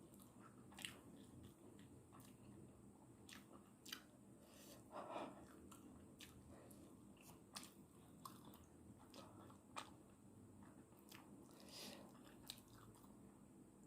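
Faint, close chewing of instant noodles, with scattered small wet mouth clicks and smacks.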